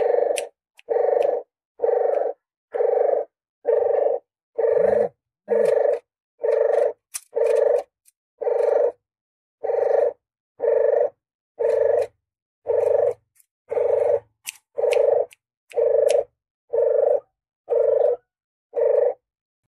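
Puter geni dove lure call: a short, low coo repeated steadily about once a second, each note loud and cut off sharply.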